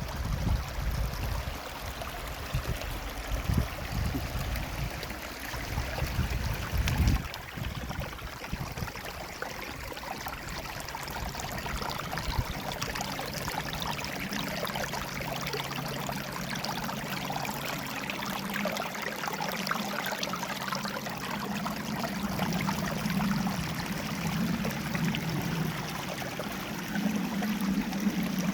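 River water flowing over rocks, a steady rushing and trickling, with uneven low rumbling in the first several seconds.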